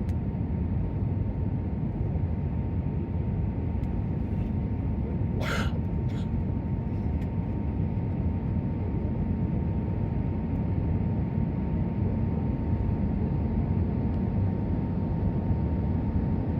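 Airbus A320neo cabin noise in flight: a steady rumble of engine and airflow with a faint steady whine, and a brief hiss about five seconds in.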